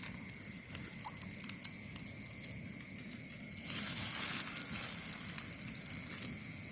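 Heavy rain pattering steadily on a camp shelter, with many small drip ticks. A brief, louder hiss lasts about a second, beginning nearly four seconds in.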